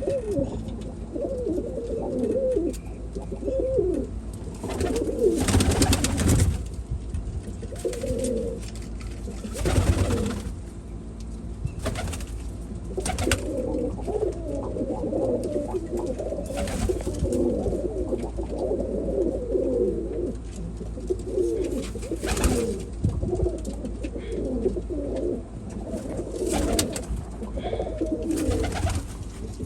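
Domestic pigeons cooing, several birds at once in a continuous overlapping chorus, with a few brief noisy bursts scattered through it.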